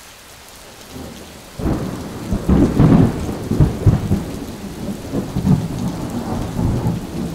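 Rain falling with a roll of thunder that breaks about a second and a half in and rumbles on, loudest in the next couple of seconds before easing off.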